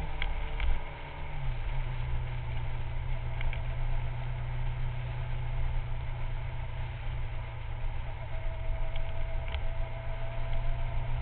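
Kawasaki 600 cc inline-four sport bike engine running at a steady cruise, its note dropping about a second and a half in and then holding, heard from a bike-mounted camera with wind rumbling on the microphone.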